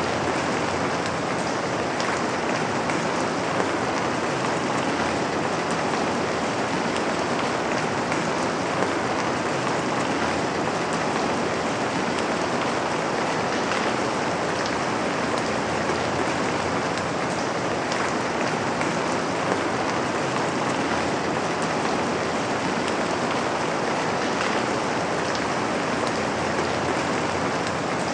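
Steady rain falling on a window: an even hiss of many drops, with a few louder single drop ticks scattered through it.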